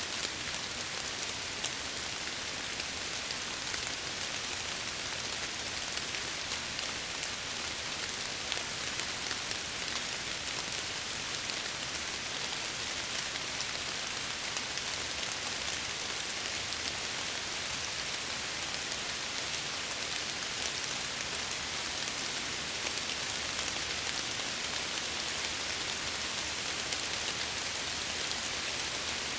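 Steady rain pattering on window glass, an even hiss with scattered drop ticks.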